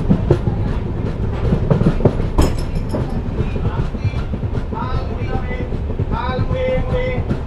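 Passenger train coach running along the track: a steady rumble of wheels on rail with irregular clicks and knocks over the rail joints.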